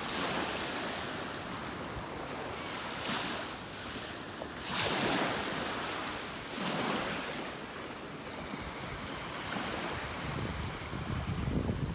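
Ocean surf breaking and washing up the beach, swelling in surges about 3, 5 and 7 seconds in. Wind buffets the microphone near the end.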